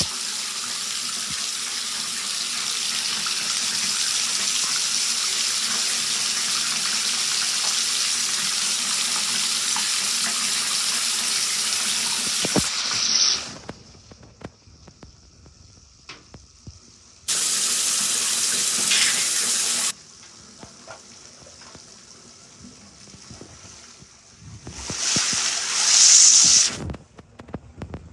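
Water running steadily from a tap into a bath, shut off about halfway through. A few seconds later comes a second short burst of rushing noise that starts and stops abruptly, and near the end a brief louder sound.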